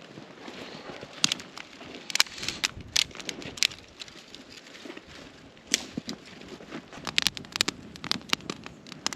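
Campfire crackling, with irregular sharp pops and snaps over a low hiss.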